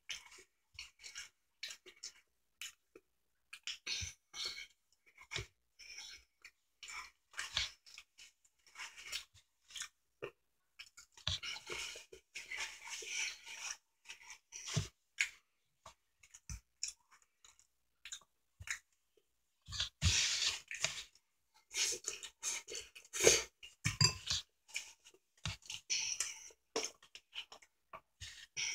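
A person chewing food close to the microphone: irregular wet mouth clicks and crunching, busiest about midway through and again in the last third.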